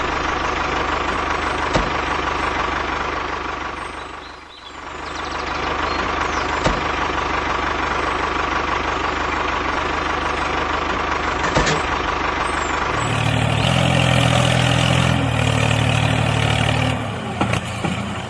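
Tractor engine running steadily. The sound dips briefly about four seconds in, then comes back, and it gets louder and deeper from about two-thirds through until near the end.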